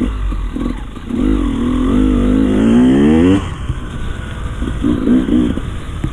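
Enduro dirt bike engine accelerating, its pitch climbing for about two seconds before the throttle is shut off past the middle, then short throttle blips near the end.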